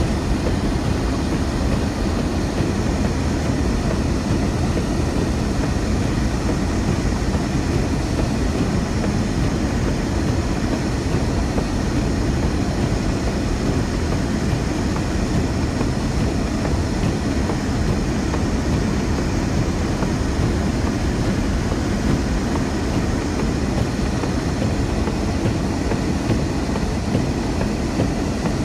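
Steady low rumbling noise that holds even throughout, with no separate knocks or pitched tones.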